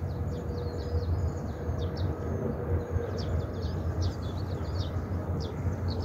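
Small birds chirping in quick, scattered calls over a steady low outdoor rumble.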